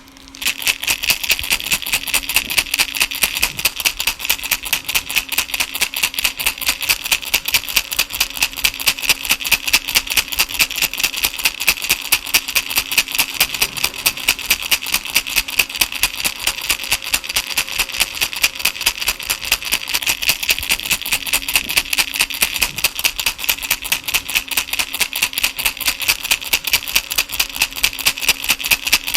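Baby rattle shaken steadily in a quick, even rhythm of about five shakes a second, a bright, high rattling of small beads or pellets.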